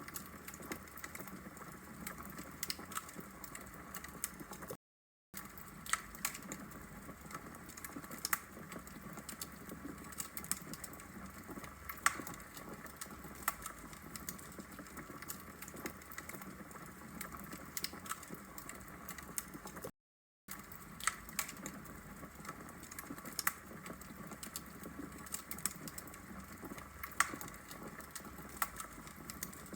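Burning logs in a fireplace crackling: a steady low hiss with frequent irregular sharp pops and snaps. The sound drops out to complete silence for about half a second twice.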